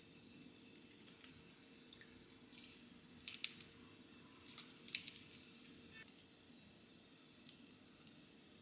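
Short crisp handling sounds, snips or rustles, in two brief clusters about a third of the way in and just past halfway, over a faint steady hum.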